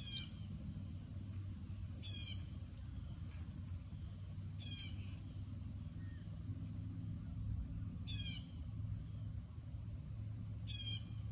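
A songbird repeating a short song five times, a few seconds apart: each song a quick run of high notes falling in pitch. A steady low rumble continues underneath.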